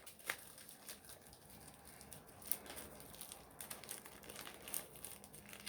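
Plastic packaging wrap on a gummy-candy box crinkling faintly in irregular little crackles as it is handled and pulled off.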